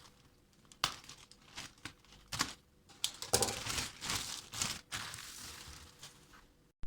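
Plastic or packaging handled by hand, crinkling and rustling, with a few sharp clicks in the first half.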